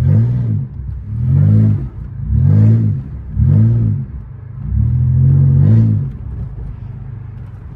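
The 3.8-litre V6 of a Pontiac Grand Prix GT is revved in five short bursts, roughly one a second, its pitch rising and falling with each, heard from inside the cabin. It then settles to a quieter steady drone.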